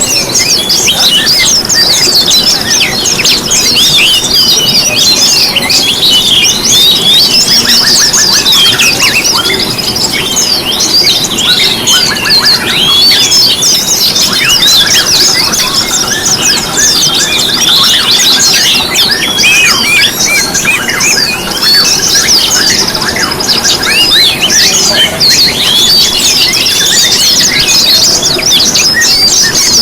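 Dense chorus of many small songbirds chirping and twittering at once, high-pitched and continuous, the calls overlapping with no pauses.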